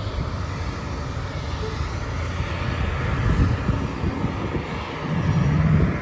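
Steady low rumble of a car driving, with engine and road noise heard from inside the cabin, growing somewhat louder near the end.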